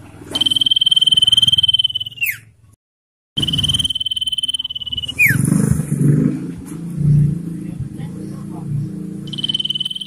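Common iora singing long, steady high whistled notes. Each is held about two seconds and ends in a quick downward slur. There are two in the first half, and a third begins near the end, with lower rough chattering underneath in the second half.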